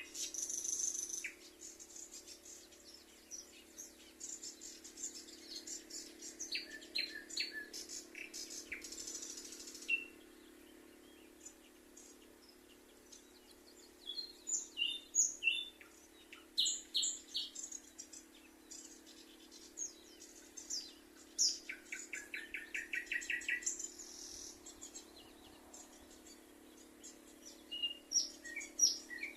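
Songbirds chirping and calling with short, high notes, including a fast, even trill about three-quarters of the way through.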